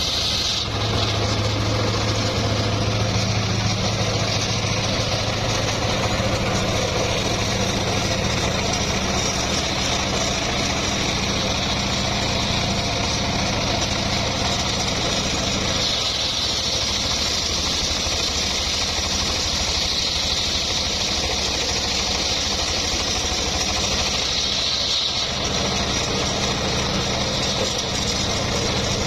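The engine of a homemade circular sawmill running steadily, its note shifting a couple of times, with a high whine above it.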